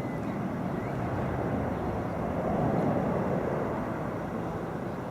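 Airbus A380's four jet engines heard as a steady rumble as the airliner flies its display, swelling slightly midway.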